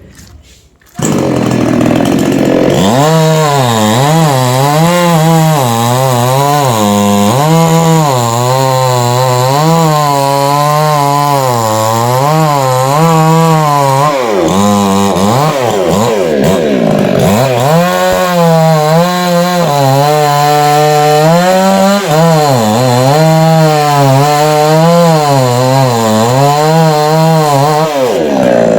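Two-stroke chainsaw cutting through a dried coconut palm trunk. It starts abruptly about a second in, and its engine pitch rises and falls again and again as the saw bogs under load and recovers, with a deeper dip about halfway through.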